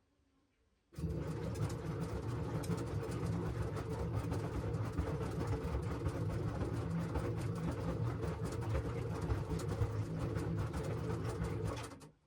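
LG washing machine's drum and motor running in a wash cycle. It starts about a second in, runs steadily with a low hum and a busy rattle of clothes and water, then stops abruptly near the end.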